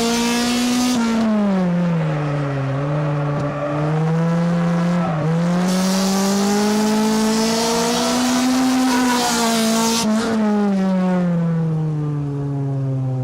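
Race car engine heard from inside the car at racing speed. Its pitch falls about a second in, climbs steadily back over several seconds, then falls again near the end as the throttle is lifted and reapplied.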